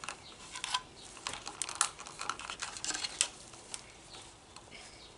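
Irregular light clicks and rustles of plastic trimmer line and its spool being handled and pulled.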